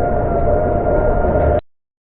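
A motor vehicle running steadily, with a low rumble and a steady whine, which cuts off abruptly about three quarters of the way in, leaving dead silence.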